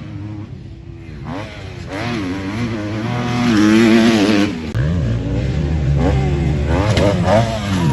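Kawasaki KX250F motocross bike's four-stroke single-cylinder engine revving hard, climbing in pitch to its loudest about four seconds in, dropping off sharply just before five seconds, then rising again in several quick throttle swoops.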